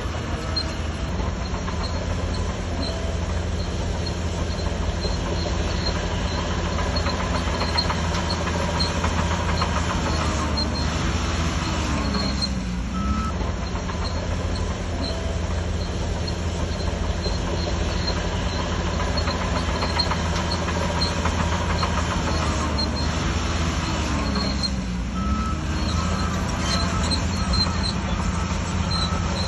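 Shantui DH17C3 crawler bulldozer's diesel engine running steadily under load, with a metallic clatter from its steel tracks. The engine note dips and picks up again twice, about twelve seconds in and again near twenty-five seconds.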